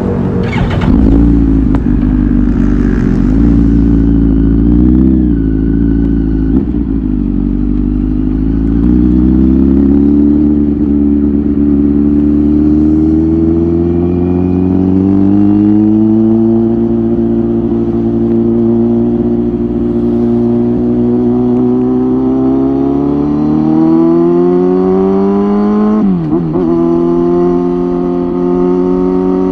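Kawasaki ZX-10R inline-four superbike engine through an aftermarket Tyrants titanium muffler, running under way. Its pitch climbs slowly for most of the time, then dips sharply and briefly near the end before holding steady.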